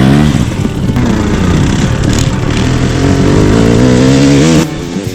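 Dirt bike engine pulling hard under throttle, its pitch climbing. The throttle is shut off suddenly near the end, as for hard braking.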